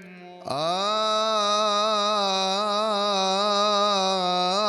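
A male voice chanting a Coptic liturgical melisma: after a brief pause it slides up onto one long note about half a second in and holds it, wavering slowly in pitch.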